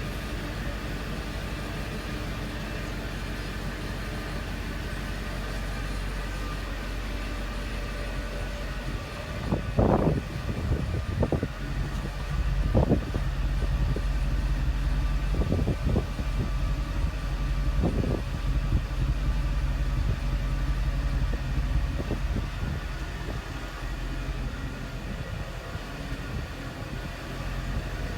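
Mercedes-Benz E55's 5.4-litre V8 idling steadily after a cold start from sitting six days, then given several short blips of throttle from about ten seconds in, after which it runs a little louder.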